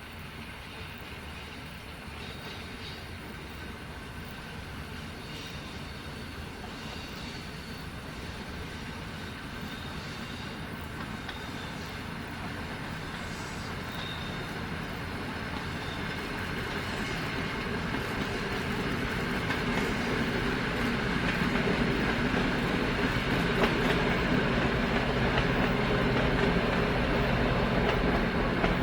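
A train approaching along the line, its running noise growing steadily louder throughout, with rail clatter coming in near the end.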